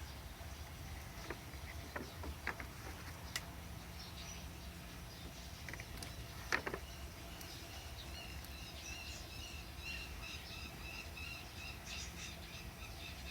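Faint background hum with a few short, soft clicks, the loudest about halfway through, and from about two thirds in a bird chirping repeatedly.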